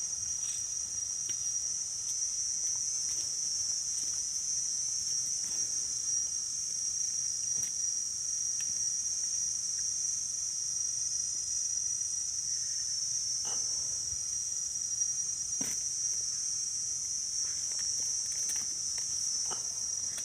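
A steady, high-pitched chorus of insects (crickets or cicadas) trilling without a break, with a few faint clicks here and there.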